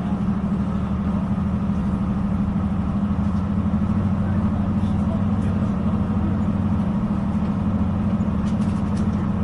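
Steady low hum and rumble of a Translink Northern Ireland Railways diesel train, heard from inside the carriage, with a few faint clicks.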